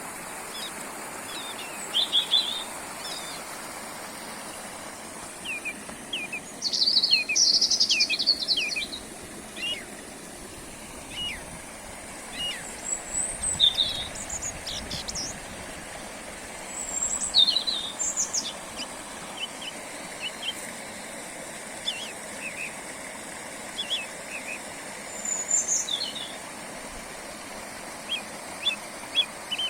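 Small songbirds singing in short, scattered phrases and chirps over the steady rush of a small forest brook.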